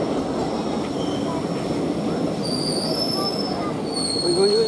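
Indian Railways passenger coaches rolling past with a steady rumble and rattle of wheels on track as the express brakes to a halt. Thin high brake squeals set in about halfway through.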